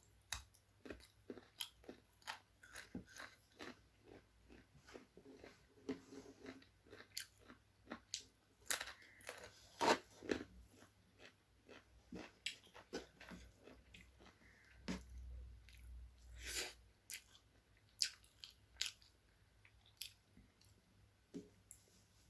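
Close-miked eating of chicken leg curry with rice: steady chewing with many irregular wet mouth clicks and smacks, several a second, and occasional sharper crunchy bites.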